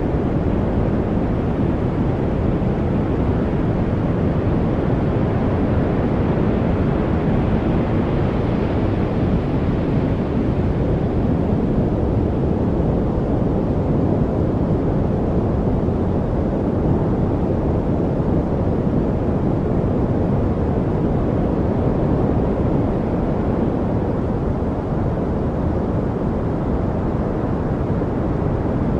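Steady, deep rushing noise from a study-aid noise track, weighted toward the low end like brown noise, with no distinct sounds in it; it brightens slightly a few seconds in, then settles.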